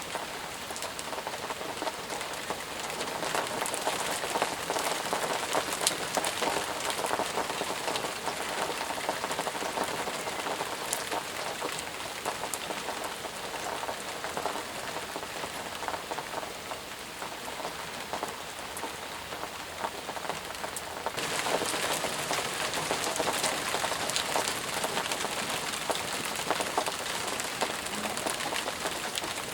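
Steady rain falling in a forest, a dense hiss with individual drops ticking through it. About twenty seconds in it turns suddenly louder and heavier.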